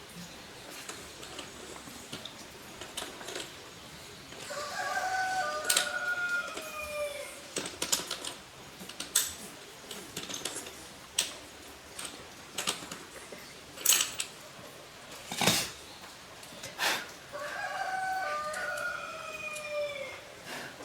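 A rooster crowing twice, each crow a long call that falls in pitch at the end. Between the crows come scattered sharp clicks and knocks.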